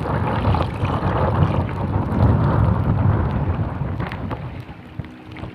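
Strong gusting wind buffeting the microphone: a loud low rumble that eases off near the end.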